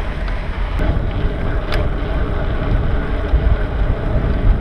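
Wind buffeting the microphone of a camera on a moving bicycle: a loud, steady rumble with a couple of faint clicks.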